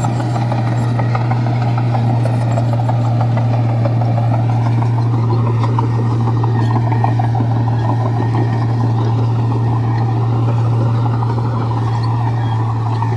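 Komatsu bulldozer's diesel engine running steadily under work, a constant low hum with mechanical clatter over it.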